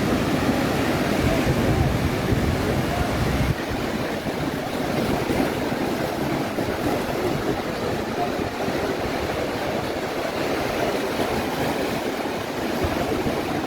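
Atlantic surf washing steadily on the shore, with wind buffeting the microphone; the low wind rumble drops away abruptly about three and a half seconds in.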